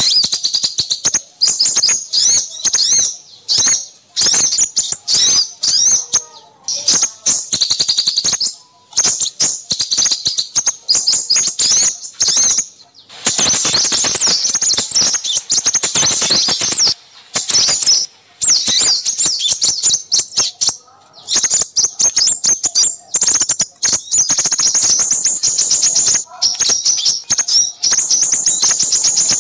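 Small songbirds chirping in rapid, high-pitched trills and twitters, dense and nearly unbroken, with brief gaps. It is a lure recording of small birds for trapping crimson sunbirds.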